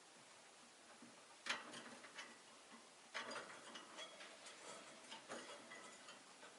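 Faint clicks and scratchy rustling from a rosy-faced lovebird: one sharp click about one and a half seconds in, then a run of clicks and rustles a little later.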